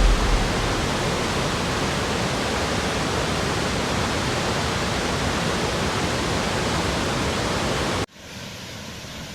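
Waterfall rushing, a steady even roar of falling water. A heavier low rumble dies away in the first half second, and about 8 seconds in the sound cuts abruptly to a quieter, thinner rush.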